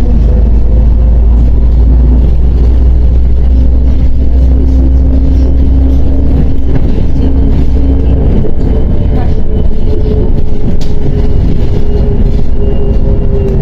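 Diesel engine of a MAZ 105.065 articulated city bus running under way, heard from inside the cabin as a steady low drone with road and body noise. About eight seconds in, the engine note changes and the drone weakens.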